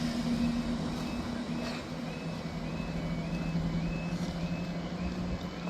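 Electronic warning alarm repeating a short rising chirp about every half second, over a steady low hum from a diesel train's engine. One of the two hum tones drops away about two seconds in.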